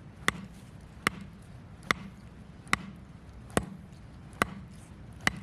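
Sharp knocks struck at an even, unhurried rhythm, seven in all, a little under a second apart, each with a short ring.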